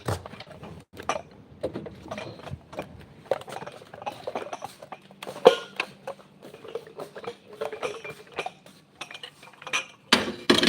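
Irregular light clinks and taps of small hard objects being handled, with one sharper knock about halfway through.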